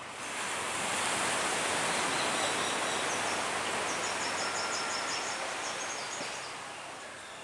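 Outdoor ambience: a rushing noise that swells over the first second and slowly fades, with a rapid series of high chirps about four seconds in.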